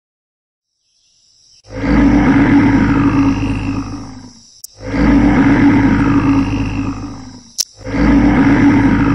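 Bear roaring: three long, loud roars of about three seconds each, the same growling roar repeated with short gaps, starting about a second and a half in.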